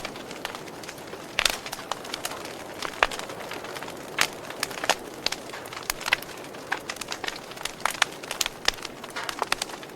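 Wood fire crackling: irregular sharp pops and snaps, a few loud ones among many small ones, over a steady soft hiss of burning.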